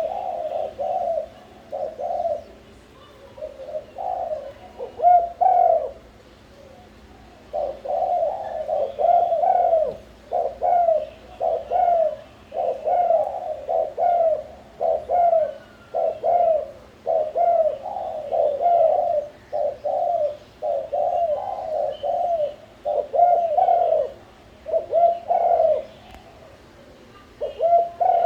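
Spotted doves (terkukur) cooing over and over in quick, overlapping phrases, with brief pauses. Faint chirps of small birds and a steady low hum sit underneath.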